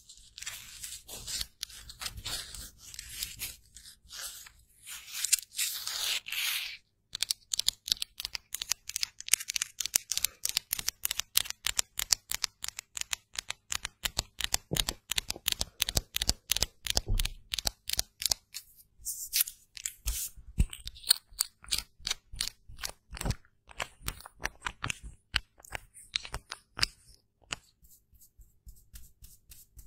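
Close-miked ASMR handling of makeup items: a few seconds of scratchy rustling, then, after a brief break, a long run of crisp taps or clicks at about five a second, with short pauses.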